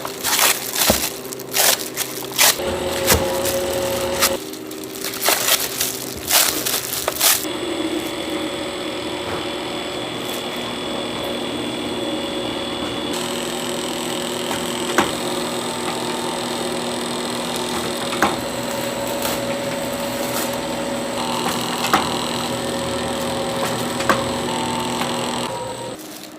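A quick run of sharp knocks and cracks for the first seven seconds or so, then a steady mechanical hum with an occasional click, typical of food being worked on a hard surface and then a machine running.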